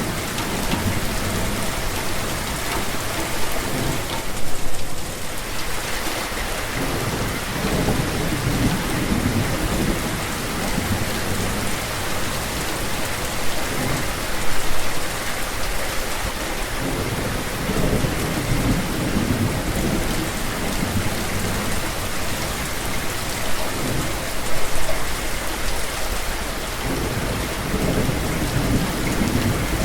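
Steady rain falling, with low rolling rumbles of thunder swelling and fading several times. There are brief louder gusts about four, fourteen and twenty-four seconds in.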